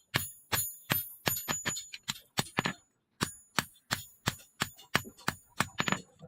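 Hammer blows on steel over an anvil, about three a second, each strike ringing high and metallic, with a short break about halfway through.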